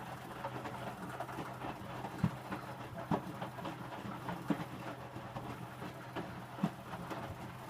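Electrolux W455H commercial washing machine tumbling a wet load of towels in its wash water: a steady hum from the machine with a separate thud every second or two as the load drops in the drum.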